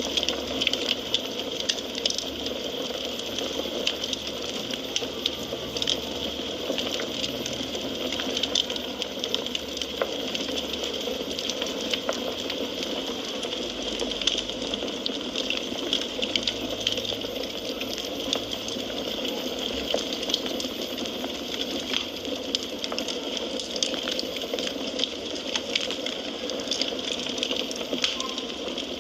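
Wood fire burning in a fireplace, a steady hiss dense with many small sharp crackles and pops.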